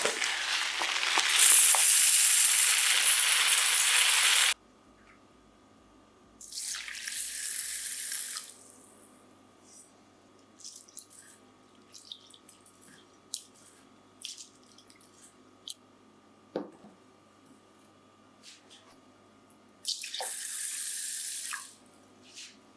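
Water running from a kitchen tap, turned on and off three times: a long run that cuts off suddenly after about four and a half seconds, a shorter one a couple of seconds later, and a last short run near the end. In the gaps there are small clinks and knocks of handling at the sink.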